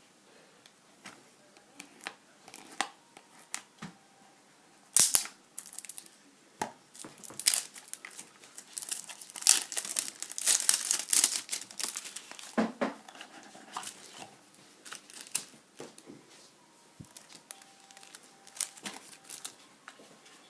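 Packaging being handled and opened: irregular crinkling, rustling and tearing, with scattered clicks, busiest in the middle stretch.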